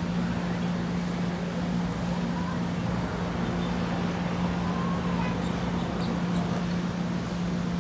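A steady low drone of a running engine or motor, holding one pitch throughout, with faint short chirps or distant voices above it.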